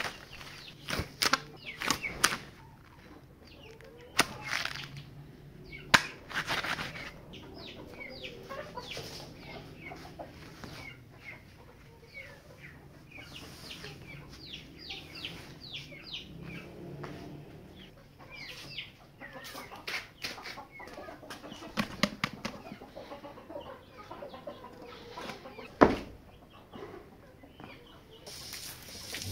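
Birds calling in short, repeated notes, busiest in the middle, with scattered sharp knocks and thumps; the loudest knock comes near the end.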